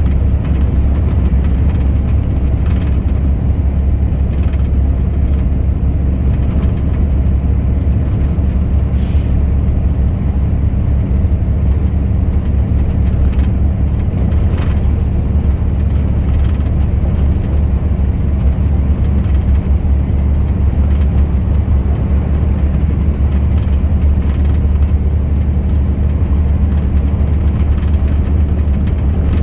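Truck engine and road noise while driving: a steady, even low drone that holds level throughout, with a few faint brief ticks or rattles.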